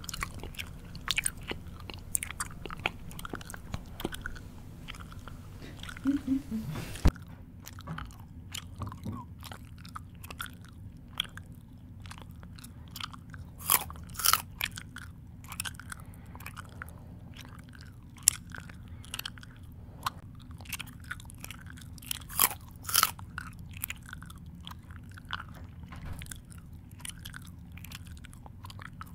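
Close-up chewing of crunchy food, with irregular crunches and wet mouth clicks at an uneven pace, over a steady low hum.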